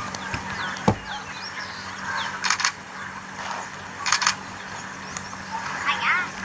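Outdoor ambience with small birds chirping in short glides, a steady low hum, and a few short sharp sounds about two and a half and four seconds in.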